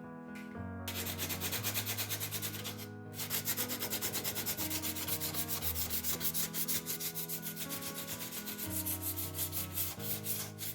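Fine 220-grit sandpaper rubbing back and forth over the painted steel of a fridge door in quick, even strokes, several a second, with a short pause about three seconds in: the rust and top layer of paint are being sanded smooth before spray painting.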